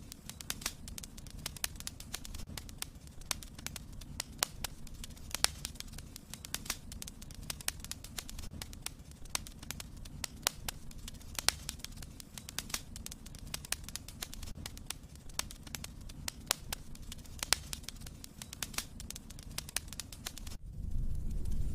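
Wood fire in a fireplace crackling, with frequent sharp, irregular pops over a low rumble of the flames. About a second before the end the sound cuts abruptly to a louder, steady hiss.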